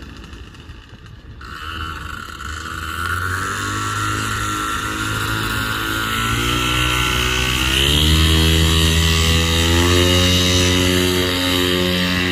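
Paramotor engine running and growing louder, its pitch rising as the throttle is opened about eight seconds in, then holding high.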